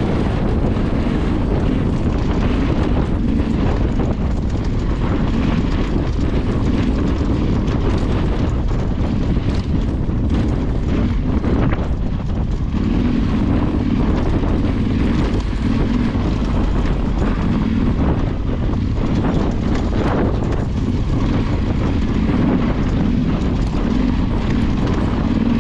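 Off-road motorcycle engine running steadily while riding, with wind buffeting the microphone.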